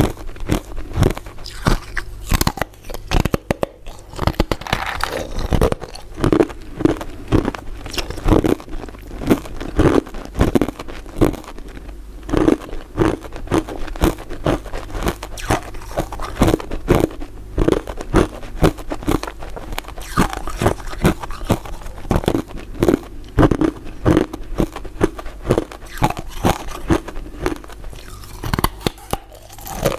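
Close-miked crunching and chewing of hard, brittle pieces of crystal ice dessert, with bite after bite of sharp cracks going on all the way through.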